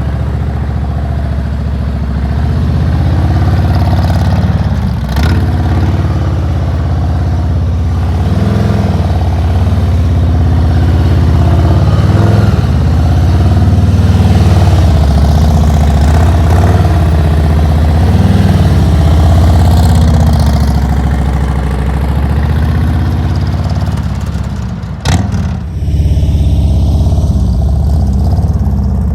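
Motorcycle engine running at low speed, its pitch rising and falling every couple of seconds with small throttle changes. A sharp click about 25 seconds in briefly interrupts it.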